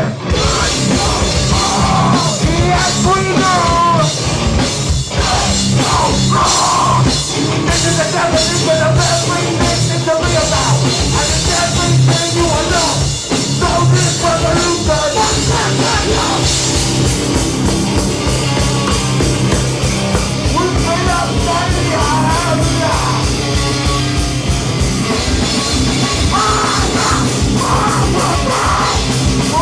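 Hardcore punk band playing live: heavy distorted guitars and bass over pounding drums, with shouted vocals. The drumming gets faster about halfway through.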